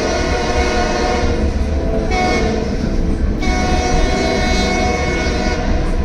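Train horn sounding in long blasts as the train departs, with a brief break about two seconds in and a change in tone a little after three seconds. It stops shortly before the end, over a low rumble from the train.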